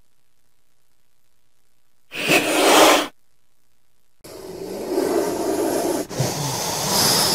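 Snake hissing: a short, sharp hiss about two seconds in, then a longer, rougher hiss from about four seconds in, broken briefly near six seconds.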